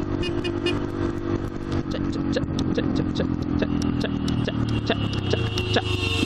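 Yamaha XTZ 125's single-cylinder four-stroke engine running steadily at low speed, with a regular run of light ticks, about three a second, through the middle.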